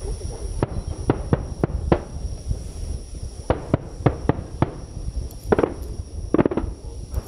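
Starmine fireworks barrage by Nomura Fireworks, heard as a dozen or so sharp bangs at irregular spacing, bunching into quick clusters about five and a half and six and a half seconds in.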